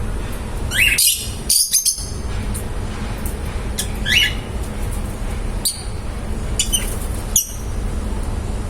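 Lovebirds giving a handful of short, shrill chirps and squawks, scattered through the few seconds with a quick cluster about a second or two in, over a steady low background hum.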